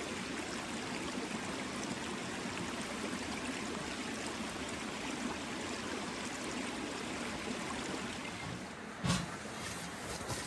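Creek water flowing steadily over rocks. About nine seconds in the flow sound drops and a dull thump and a few sharp knocks follow.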